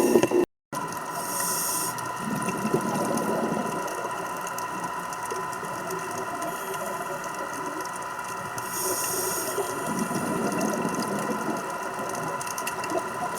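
Scuba regulator breathing heard underwater: a short hiss of inhalation followed by a longer rumble of exhaled bubbles, twice, over a steady hum.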